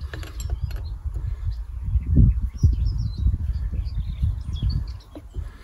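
Small birds chirping in short high calls over a low, uneven rumble.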